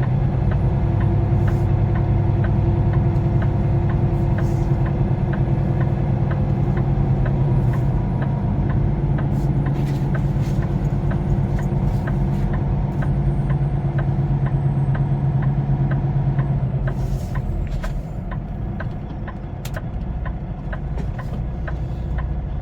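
Semi truck's diesel engine running steadily, heard from inside the cab, with a light ticking about twice a second. The engine note drops about seventeen seconds in.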